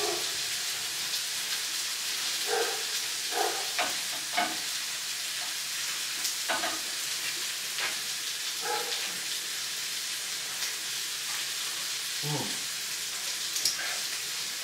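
Tomatoes and chillies frying in a pan with a steady sizzle, with a few short knocks and scrapes scattered through it.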